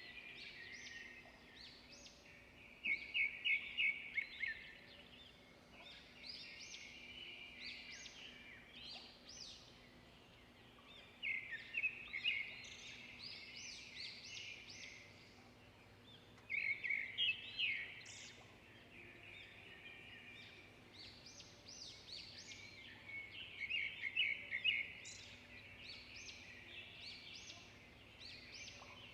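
Several small songbirds singing and chirping together, with a loud, rapid trill breaking out about every six to seven seconds.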